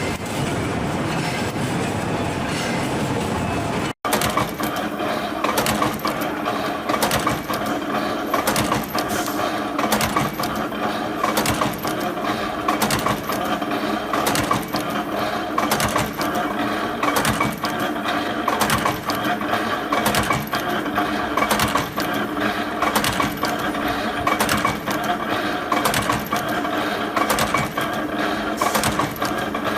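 Machinery: a steady, even rumbling noise that cuts off suddenly about four seconds in, followed by a machine running with a steady hum and rapid, irregular metallic clicking and clinking.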